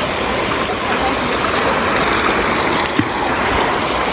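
Creek water rushing steadily over rocks, with a single small knock about three seconds in.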